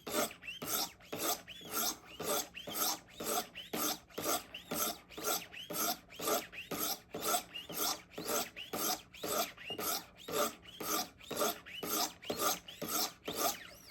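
100-grit sharpening stones of a Wicked Edge Go guided sharpener stroked along a steel knife blade, an even rasping rhythm of about two strokes a second, grinding the edge at the coarse first grit.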